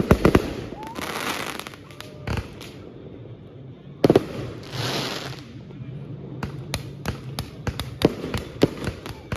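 Fireworks going off: a few sharp bangs, two longer crackling bursts, then a quick run of pops near the end.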